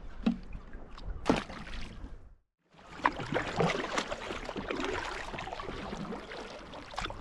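Water lapping and sloshing against a kayak's hull, with a few sharp knocks of gear being handled in the first two seconds. The sound cuts out completely for a moment about two and a half seconds in, then the water noise carries on steadily.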